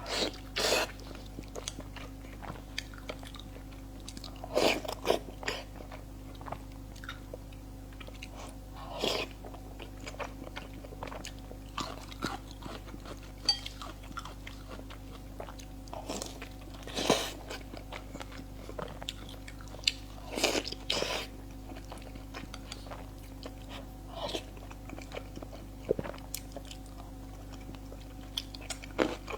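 A person chewing and biting food close to the microphone, with scattered short crunchy and wet mouth sounds every second or two over a faint steady hum.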